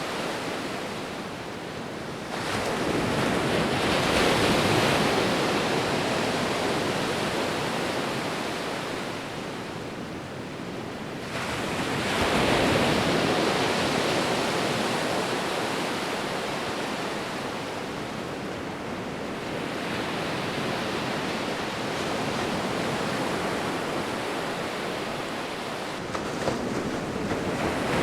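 Ocean waves breaking and washing ashore in a steady rolling surf, with swells about two, eleven and twenty-six seconds in, each slowly ebbing away.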